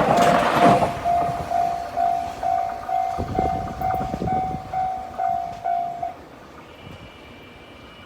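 A train's rumble fades as a railway level-crossing bell rings in even single-pitched beeps, about two a second. The bell stops about six seconds in.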